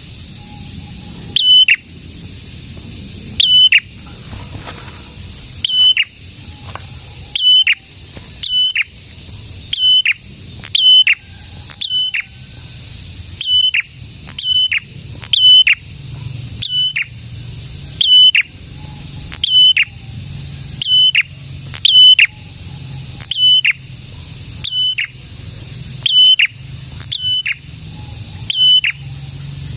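A prenjak calling over and over: a sharp, high, quickly falling note, often given twice in a row, repeated about once a second in an unbroken series.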